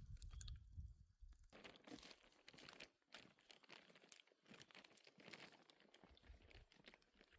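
Faint crunching footsteps, an uneven run of soft crackles and scrapes.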